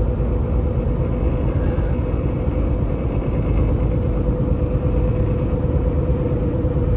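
Semi truck heard from inside the cab at highway speed: steady engine and road rumble with a steady hum over it.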